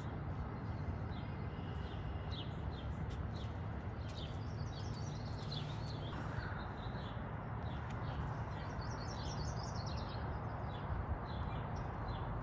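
Small birds chirping: many short high notes throughout, with two quicker runs of calls, about a third of the way in and again past the middle, over a steady low background hum.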